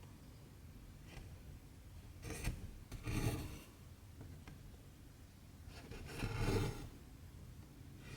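Cotton embroidery thread pulled through 14-count cross-stitch fabric, a rasping swish about two seconds in, again a second later, and once more about six seconds in.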